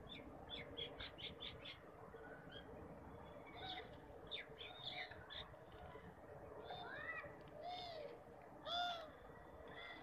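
Birds chirping and calling: a quick run of short high chirps about a second in, scattered chirps through the middle, then three louder arching calls near the end, the last the loudest.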